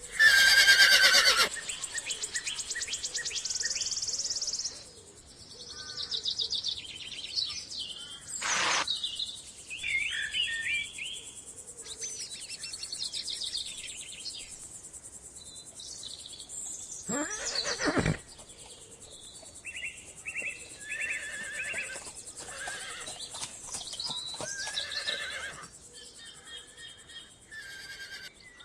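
A horse whinnying loudly for a second or so at the start, then birds chirping and calling in short repeated phrases over a steady high hiss, with two sharp falling sweeps, one about a third of the way in and one past the middle.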